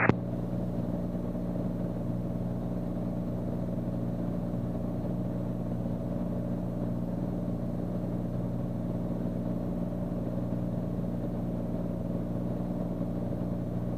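Beechcraft Bonanza's piston engine droning steadily in flight, heard through the cockpit intercom as an even hum with no change in power.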